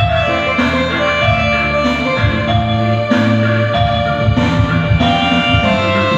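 Karo gendang-style music played on a Yamaha PSR-S975 arranger keyboard: a sustained melody line over changing bass notes and a percussion accompaniment.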